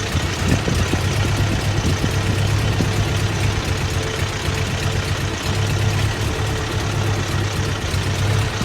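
Toyota 22R 2.4-litre four-cylinder engine idling steadily with a rough idle, which the owner sets out to trace to the ignition timing at the distributor.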